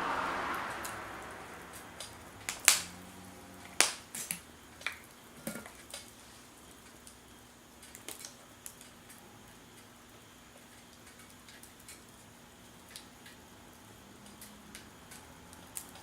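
Wood fire crackling, with sharp irregular pops and snaps that are densest in the first half and thin out later. A broad rushing noise fades out over the first couple of seconds.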